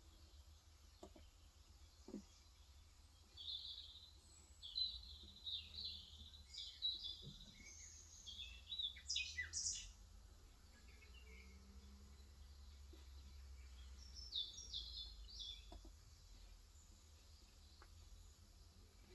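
Birds chirping outside in quick clusters of short high calls, mostly in the first half and again briefly later, over a steady low hum, with a few isolated soft knocks.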